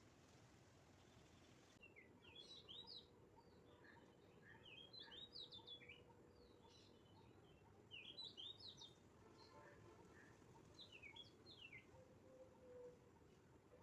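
A songbird singing faintly: four short phrases of quick, high notes, a few seconds apart, over a steady low background hiss.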